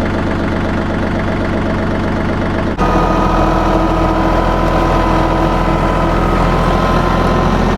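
Bad Boy 4025H compact tractor's diesel engine running steadily, close up. About three seconds in the sound changes abruptly to a steadier, higher-pitched hum with a whine over it.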